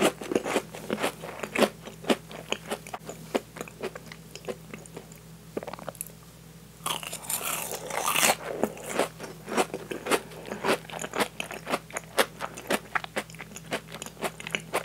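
Close-miked chewing of a crab cream croquette, its fried breadcrumb crust crunching in many quick clicks. A louder, denser mouthful comes about seven seconds in.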